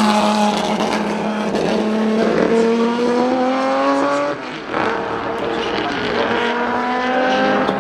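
Group C sports-prototype race car engine under hard acceleration, its pitch climbing steadily, briefly cut about four and a half seconds in by an upshift, then climbing again.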